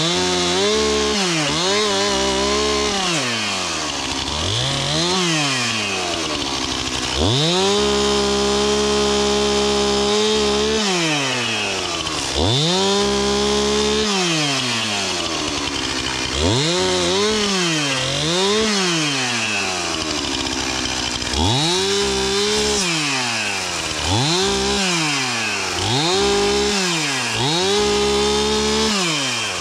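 Chainsaw revved up and down over and over, held at full throttle for a second or three at a time as it cuts through wood, then dropping back toward idle.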